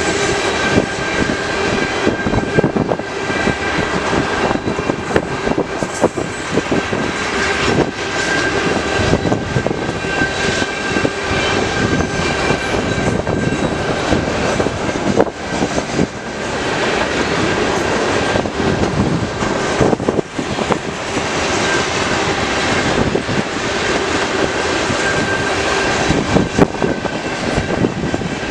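Tank cars and freight cars of a CN manifest freight train rolling past: a steady rumble of steel wheels on rail, with frequent clicks as wheels cross rail joints and a steady high-pitched whine above it.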